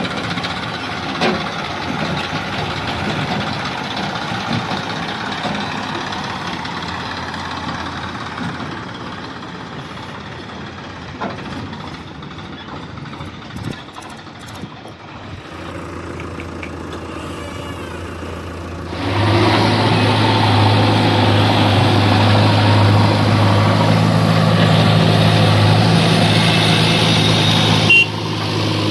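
Heavy vehicle's diesel engine running. About two-thirds of the way through it becomes much louder and holds a steady pitch, then drops suddenly near the end.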